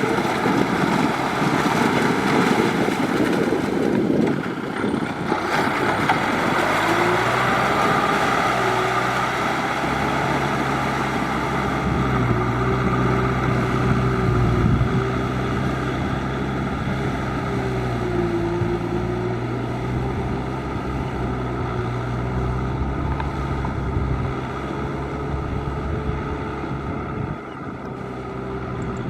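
Tractor engine working under load while ploughing through deep mud and water, its pitch dipping and recovering over a dense, steady noise.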